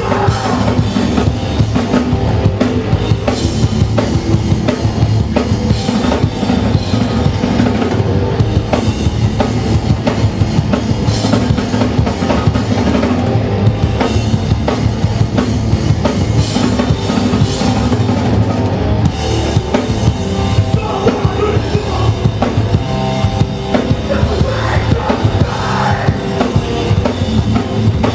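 Hardcore punk band playing live at full volume, a drum kit pounding out rapid kick and snare hits under the rest of the band.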